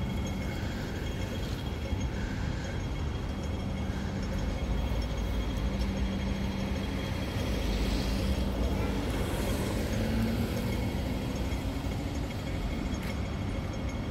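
Hong Kong Light Rail Phase 5 two-car train running over a steady rumble and hum, with a rising whine about two-thirds of the way through as it gathers speed.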